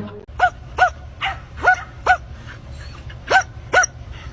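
A small dog barking in short, high barks, about seven in all, with a pause of about a second in the middle.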